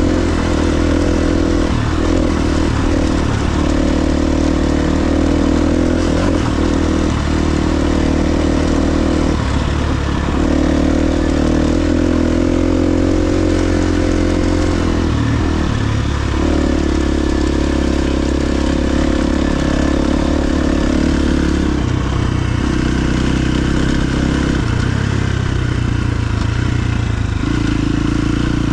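KTM 350 XC-F single-cylinder four-stroke dirt bike engine running under way, its pitch stepping up and down several times as the throttle opens and closes.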